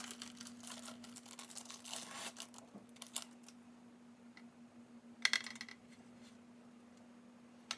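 Soft rustling and light clicks of sandwich-making by hand, as cheese slices are laid on slices of bread, with one sharp clink about five seconds in. A faint steady hum lies underneath.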